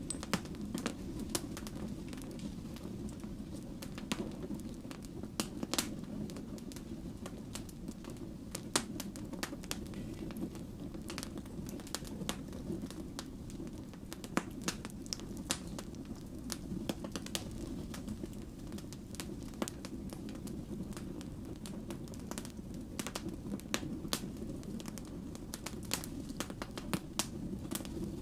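Wood fire burning with a steady low rumble of flames and irregular sharp crackles and pops.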